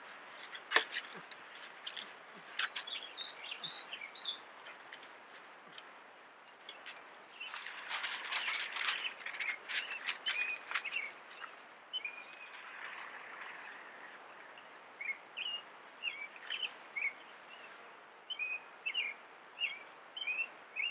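Small birds chirping in short, repeated calls over a steady background hiss, busiest in the middle and again near the end. There are scattered sharp clicks and rustles, and a faint constant high whine.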